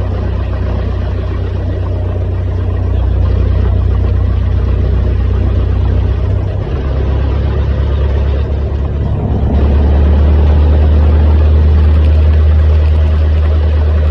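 Cessna's piston engine and propeller droning steadily, heard from inside the cockpit; the pitch and level step up twice, about three seconds in and again near the middle, as power changes.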